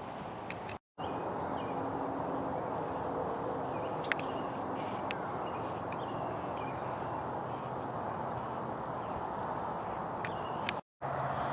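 Steady outdoor background noise with a few faint, short bird chirps over it. The sound cuts out completely for a moment about a second in and again near the end.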